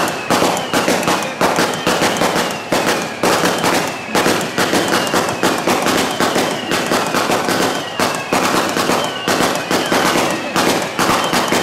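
Strings of firecrackers going off in a fast, continuous crackle of sharp bangs, with a short high tone that slides down, repeating through it.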